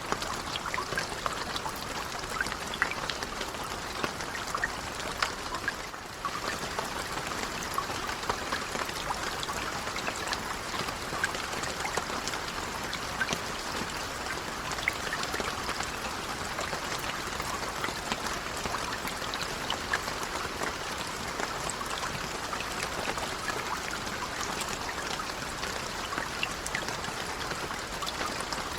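Steady rain with many separate drops pattering, a brief dip in level about six seconds in.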